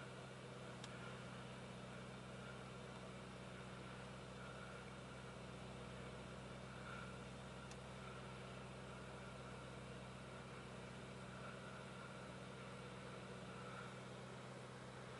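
Faint, steady low hum of a Lamborghini Urus's twin-turbo V8 idling, heard from inside the cabin, with two faint ticks.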